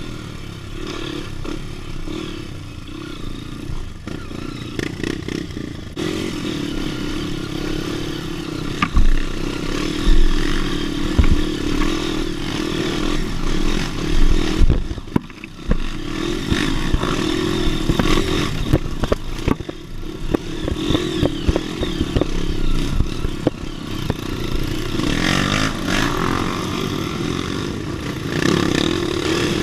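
Dirt bike engine running with the throttle opening and closing on a rough trail. Knocks and clatter come from the bike bouncing over the ground, with a few heavier thumps about a third and halfway through.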